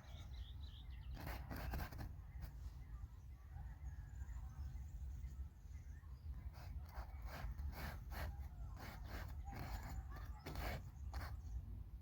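Steady low wind rumble on the microphone, with a run of short, scratchy paintbrush strokes on paper, busiest about a second in and again in the second half.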